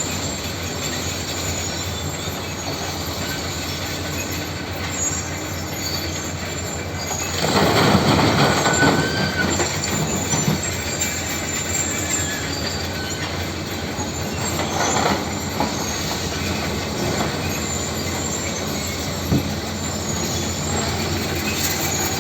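Tractor engine running steadily with metallic mechanical noise. It gets louder for about three seconds, starting about seven seconds in, and briefly again around fifteen seconds.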